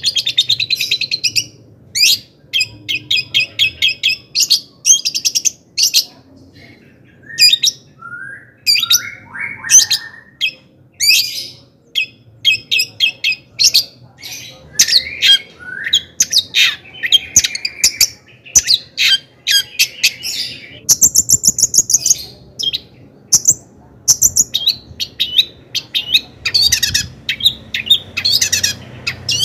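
Long-tailed shrike (cendet) singing a loud, varied song. It comes in bursts of rapid high chattering trills and harsh notes, broken by short pauses, with a few lower sliding notes about eight to ten seconds in.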